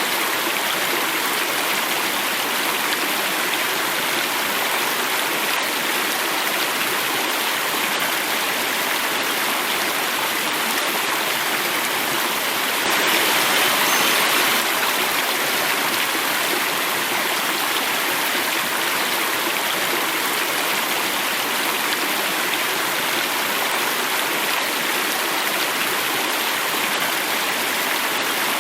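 Water running and falling over rocks: a steady rushing stream or small waterfall, a little louder for a couple of seconds near the middle.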